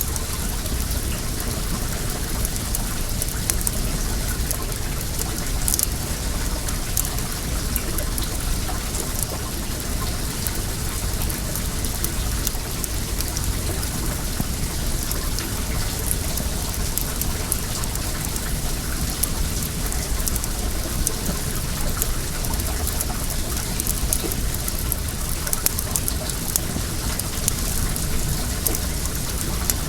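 Wood bonfire crackling with many small sharp pops, over the steady rushing of flowing well water.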